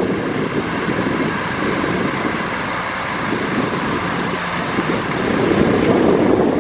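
Heavy earthmoving machinery's diesel engine running steadily, growing a little louder near the end.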